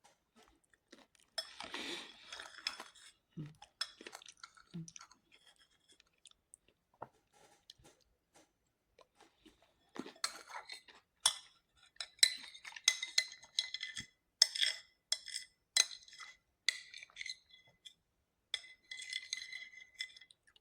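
Eating sounds: cutlery clinking against dishes, with chewing and crunching. A crackly crunch comes about a second and a half in, then from about halfway a run of sharp clinks, many of them ringing briefly.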